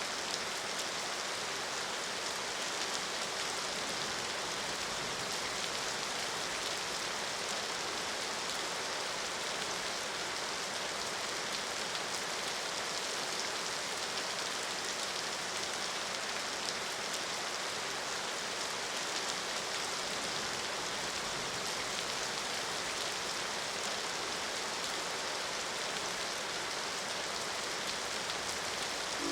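Steady rain falling, an even continuous hiss with no change in strength.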